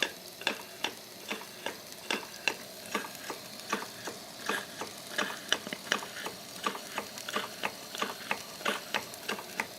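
Stuart model steam beam engine running steadily under live steam, its exhaust beats and valve gear giving short sharp ticks at an even rhythm of about three a second. The boiler is at 40 psi with the safety valve not blowing off.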